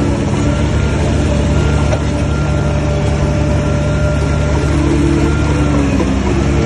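Heavy diesel engine of earthmoving machinery running steadily under load, with a deep, even note.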